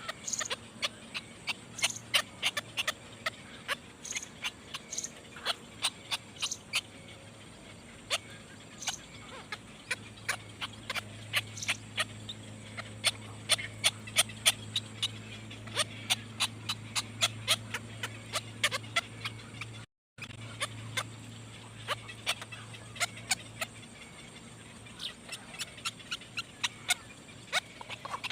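Nestling birds cheeping in the nest: many short, sharp, high-pitched calls, several a second in irregular bursts, over a low steady hum, with a brief cut-out partway through.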